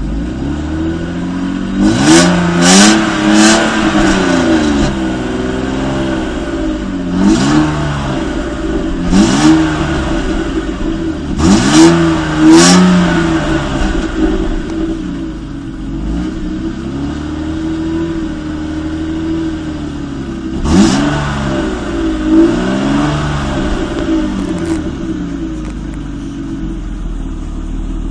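BMW E36 320i's 2.0-litre inline-six on its stock exhaust, heard onboard, revving up and easing off again and again as the car is driven. There are several sharp clicks or cracks at the quick rises in revs.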